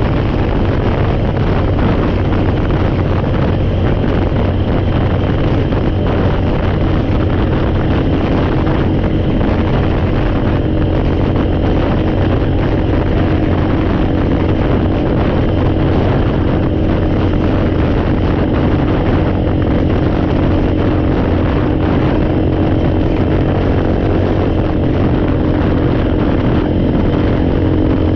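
ATV engine running steadily under way, with wind buffeting the microphone.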